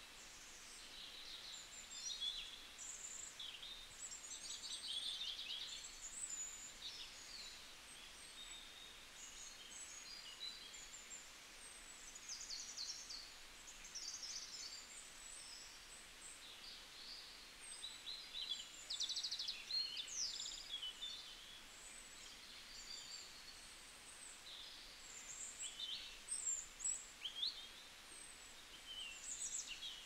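Many songbirds singing at once, a dense chorus of short high chirps and trills that overlap and come and go, over a faint outdoor hiss.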